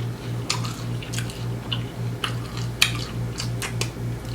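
Close-up chewing of food, with wet, irregular smacking clicks from the mouth.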